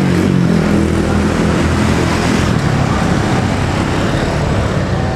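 Gajayana passenger train passing close by: a loud, steady rush and rumble of stainless-steel coaches rolling on the rails, with the locomotive's engine note dropping in pitch at the very start as it goes past.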